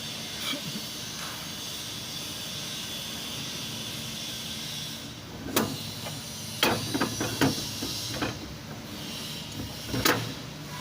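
Steady hiss under sharp metal knocks and clinks of tools and parts during a differential rebuild: a single knock about halfway through, a quick run of clinks a second later, and one more loud knock near the end.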